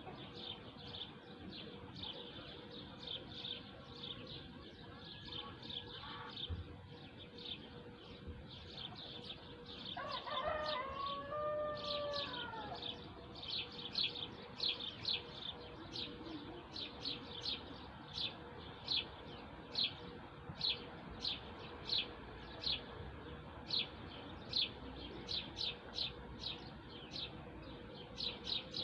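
Bird chirping: a long run of short, high chirps, coming about twice a second in the second half, with a lower warbled call about ten seconds in.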